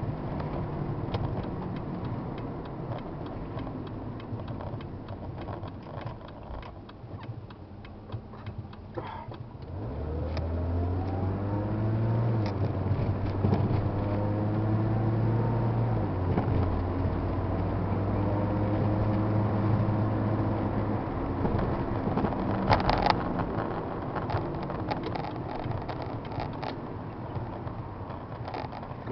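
Toyota Supra MK2's 2.8-litre 5M-GE inline-six, heard from inside the cabin while driving. It cruises at first, then about ten seconds in it pulls harder, its pitch climbing as the car speeds up. After about twenty seconds it settles back to a steady cruise.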